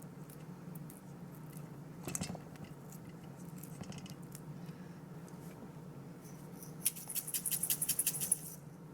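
Kitchen handling sounds over a steady low hum: a single knock about two seconds in, then a quick run of sharp clicks near the end.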